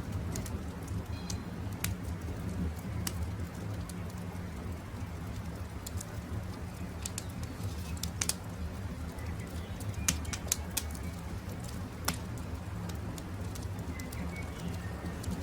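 Campfire crackling, with irregular sharp pops over a steady low rumble. Faint short bird chirps sound now and then in the background.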